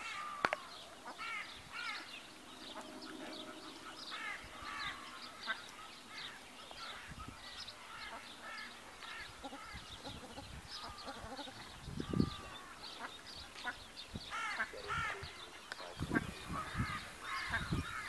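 Waterfowl and other birds calling: a steady chatter of many short, arching chirps, with a few louder, lower calls about twelve seconds in and again near the end.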